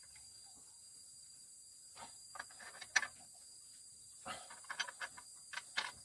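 Hand tools clicking and clinking against metal in scattered short knocks, in two clusters, with the sharpest click about three seconds in.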